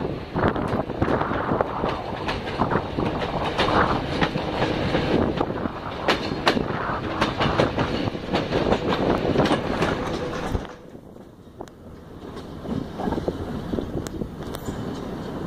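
Passenger train running along the track, heard from an open carriage window: a steady rumble with many sharp clacks of wheels over rail joints. About ten and a half seconds in the noise drops off suddenly, then partly comes back.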